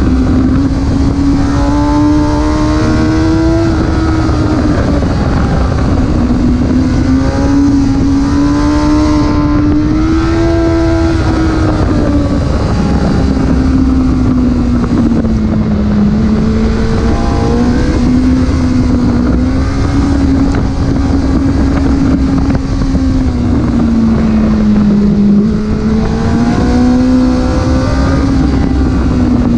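Porsche engine running under way, its steady note rising and falling slowly with road speed, over constant road and wind noise.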